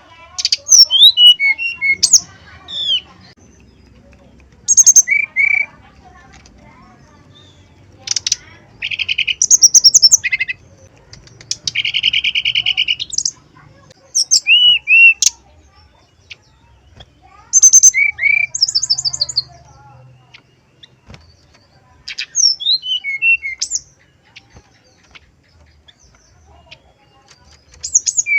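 Brown-chested jungle flycatcher singing in about eight short bursts of varied song a few seconds apart: downslurred whistles, high ringing notes and a buzzy trill.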